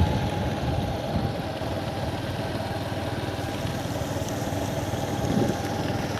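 A vehicle engine running steadily on the road.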